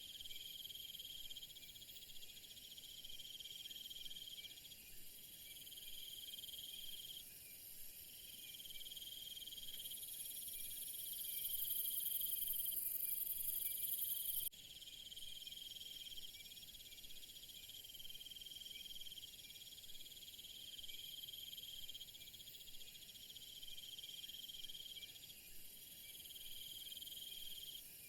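A chorus of crickets and other insects chirping steadily in high, shrill tones. A louder high buzz swells in about ten seconds in and cuts off suddenly some four seconds later.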